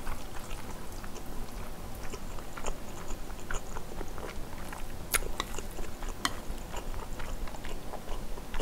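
Close-miked chewing of a mouthful of braised kimchi and chewy glass noodles: soft, wet mouth clicks scattered through, with a couple of sharper clicks about five and six seconds in.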